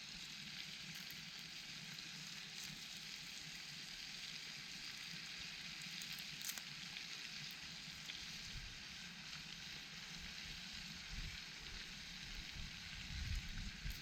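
Food sizzling steadily in a pan over a campfire, an even frying hiss. Low rumbling comes in near the end.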